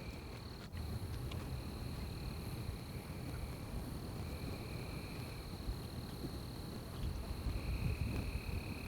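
Night forest ambience: insects trilling steadily at a high pitch, with a second, lower insect trill coming and going in spells of a second or so, over a low rumble. A single click comes under a second in.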